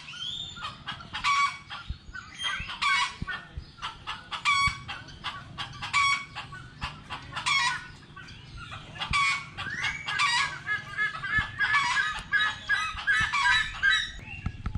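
Birds calling: loud, short calls repeating about every second and a half, then a dense chorus of many overlapping calls from about nine seconds in.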